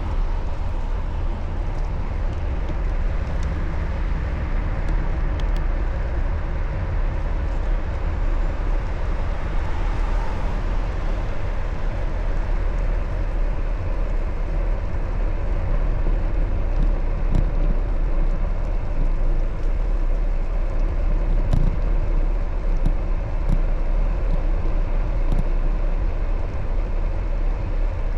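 Steady road and traffic noise heard from a moving bicycle, with a constant low rumble underneath.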